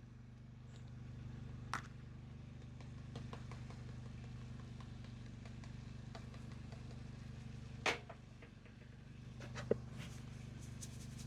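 Pork chops browning in a pot, a faint sizzle over a steady low hum, broken by a few sharp clinks of a utensil against the cookware, the loudest about eight seconds in.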